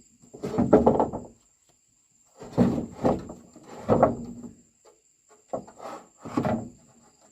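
Knocks and scrapes of hard objects being handled, in four rough groups.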